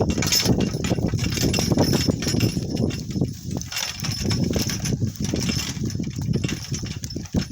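Donkey-drawn cart jolting and rattling as it rolls over rough, bumpy ground, a dense run of small knocks and thumps.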